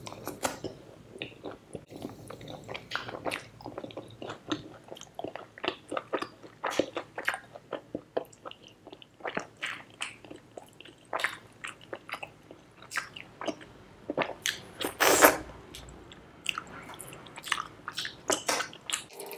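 Close-miked chewing and biting of butter chicken and bread, eaten by hand: a steady run of short mouth clicks, several a second. One louder, longer noise about fifteen seconds in.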